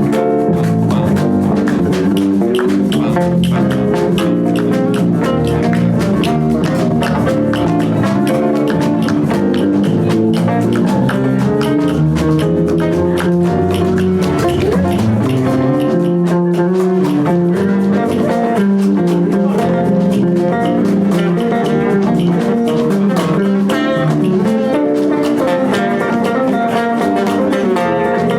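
Live band playing an instrumental passage, with guitar to the fore.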